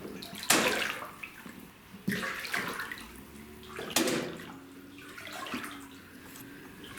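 A person wading through standing water in a flooded cellar: three loud splashing strides about a second and a half to two seconds apart, with water sloshing between them.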